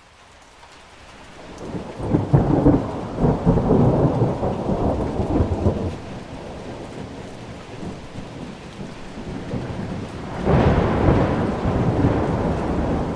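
Thunderstorm: steady rain under rolling thunder. The sound rises from quiet over the first two seconds into a long, heavy rumble, and a second loud peal breaks about ten seconds in.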